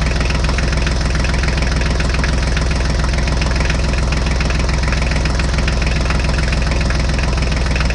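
Tractor engine idling steadily, a deep even rumble with rapid regular pulsing.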